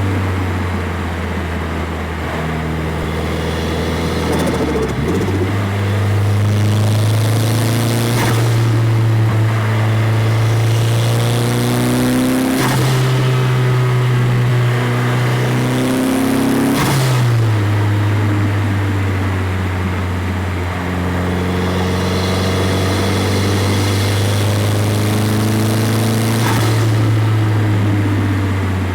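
Nissan 200SX's SR20DET turbocharged four-cylinder running through an Invidia GT350 exhaust as the car pulls through the gears. The engine note climbs slowly and drops suddenly about four times, at each gear change, with a short rush of turbo blow-off hiss at the changes.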